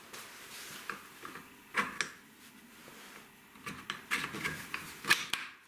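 Irregular light clicks and knocks of small wooden engine parts being handled and fitted together, with no steady running rhythm.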